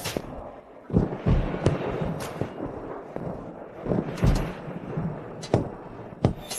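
A run of heavy booms and thuds, about eight sharp hits at uneven intervals, each with a short low rumble, over a steady noisy background.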